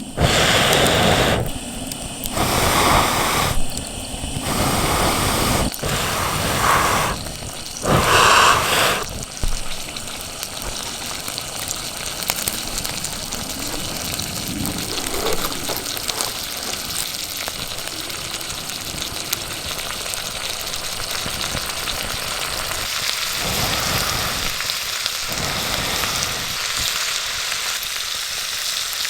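Food frying in a pan over a campfire: a steady sizzling hiss that settles in about nine seconds in. Before that, the first several seconds are a run of short, abruptly changing noise segments.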